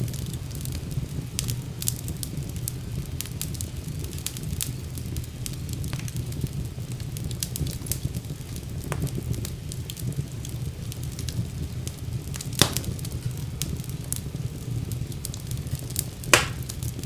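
Wood fire burning in a fireplace: a steady low rumble of flames with scattered crackles, and two louder pops of the burning wood near the end.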